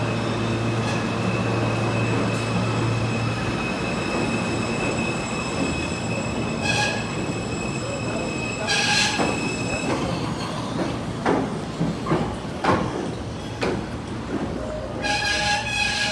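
New York City subway car running, heard from inside. There is steady running noise, with short high-pitched wheel squeals about 7 and 9 seconds in and again near the end. A run of sharp clicks and knocks from the wheels on the track falls in between.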